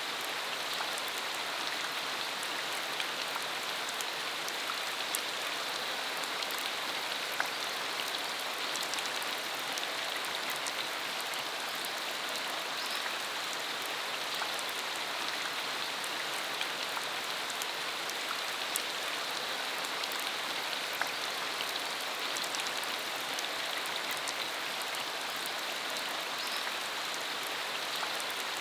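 Steady rain falling, with a continuous hiss and scattered individual drops ticking on surfaces.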